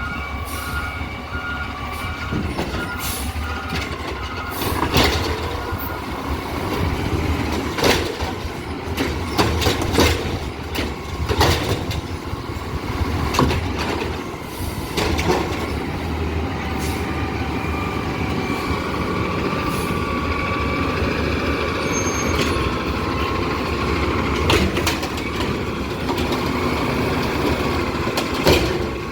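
Garbage truck's diesel engine running steadily, with its reversing alarm beeping about twice a second for the first several seconds. Repeated sharp knocks and bangs come throughout, and a pitched whine rises and holds through the later part.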